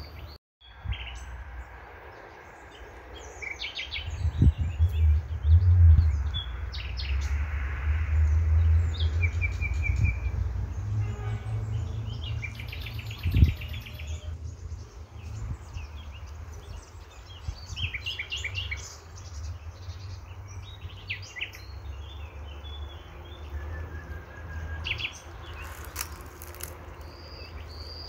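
Birds chirping and calling in short, scattered phrases, over a low rumble on the microphone that is strongest from about four to fourteen seconds in. There is a single thump about thirteen seconds in, and the sound drops out briefly just after the start.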